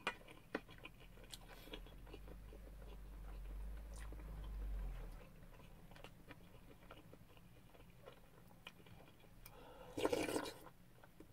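Close-up chewing of shrimp fried rice, with small clicks of a wooden spoon against a stainless steel bowl. About ten seconds in comes one short, louder slurp as broth is sipped from the spoon.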